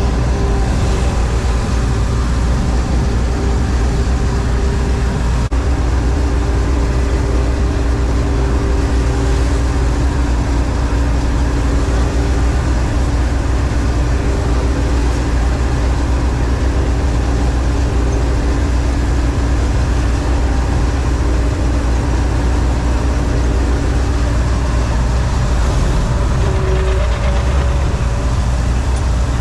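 John Deere 4400 combine running steadily while cutting soybeans: a constant, unchanging drone of the engine and threshing machinery with steady hum tones over a heavy low rumble.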